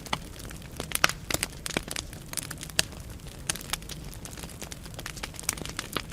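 Wood fire burning in a fireplace: irregular sharp crackles and pops from the burning logs over a low steady rumble of flame, the loudest pop about a second in.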